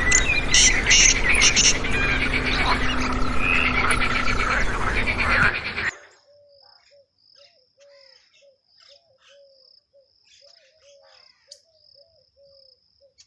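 Nature ambience: a loud, busy mix of bird calls over a dense background noise that cuts off suddenly about six seconds in, followed by a faint chorus of small, evenly repeated chirps with a high steady trill, typical of night insects.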